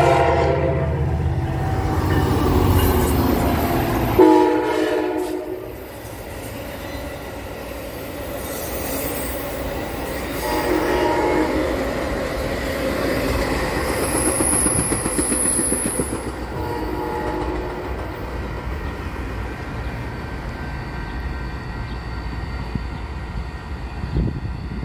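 Metra diesel commuter train passing close by: the locomotive's engine rumble for the first few seconds, then its bilevel coaches rolling past. Its multi-note air horn sounds several times, the longest blast about four seconds in, and a brief high squeal comes near the middle.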